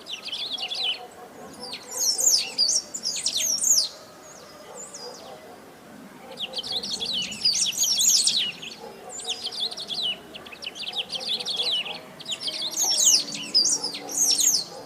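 Great pampa-finch (sabiá-do-banhado) singing: repeated phrases of rapid, jumbled high notes, each a second or two long, with short pauses between them.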